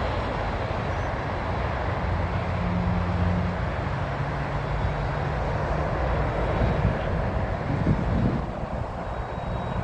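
Jet engines of a Boeing 787 airliner running, a steady rushing noise with a low hum underneath.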